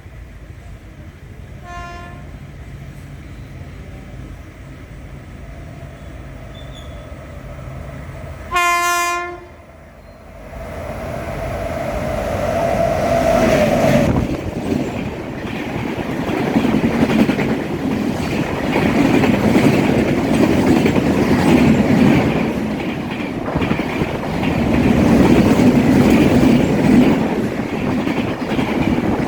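Train horn sounding a brief faint toot, then a loud blast about nine seconds in, as a train approaches. It then passes close by for the rest, a loud steady rumble with the clickety-clack of wheels over rail joints.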